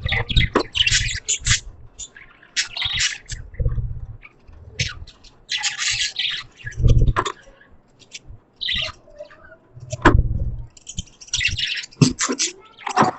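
Budgerigars chirping and chattering in irregular bursts of short, high calls, with a few low thuds mixed in.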